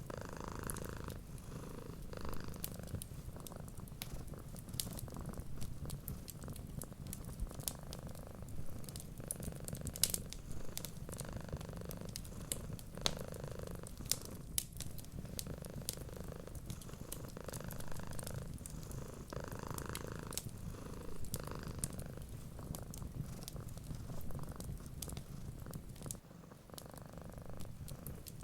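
Cat purring steadily, a low rumble that swells softly in and out with its breaths, over a wood fire's scattered sharp crackles and pops.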